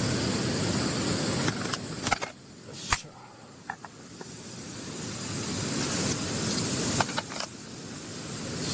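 Fatty beef sizzling on a charcoal grill: a dense, steady hiss that dips about two seconds in and then swells again. A few sharp clicks and crackles are heard along the way.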